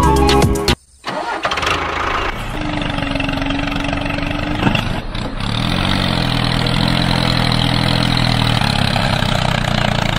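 Music cuts off about a second in, then an engine starts and runs steadily.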